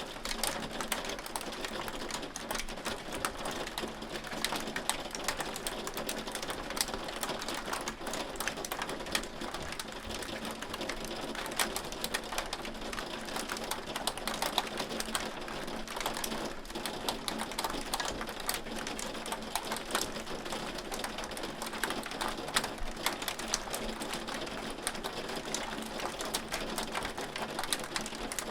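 Hail falling steadily, a dense patter of countless small hailstones clicking and tapping on hard surfaces.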